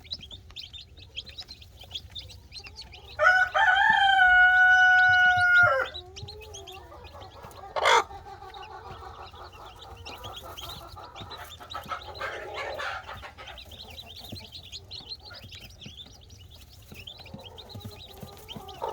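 A rooster crows once, loud and about two and a half seconds long, a few seconds in, over a background of hens clucking and chicks peeping. A single sharp, short sound comes about eight seconds in.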